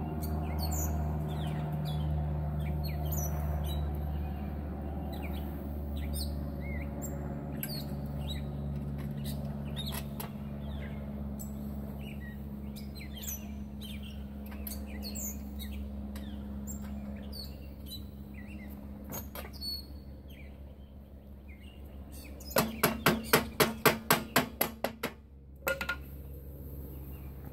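Small birds chirping repeatedly over a low steady hum that fades out. Near the end, a quick run of about a dozen loud sharp taps, about five a second, then one more click.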